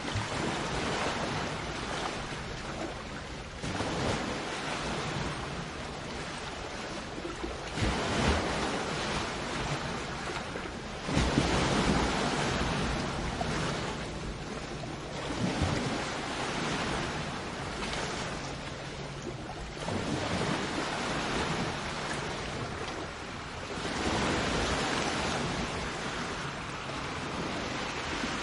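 Sea waves breaking and washing up a shore, the surf swelling in repeated surges every few seconds, the loudest about a third of the way in, with some wind on the microphone.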